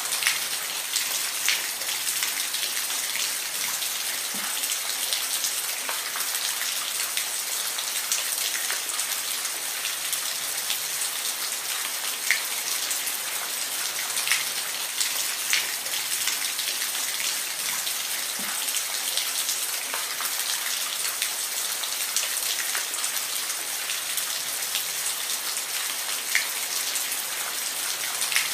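Steady rain falling, an even hiss with scattered distinct drops ticking on a surface.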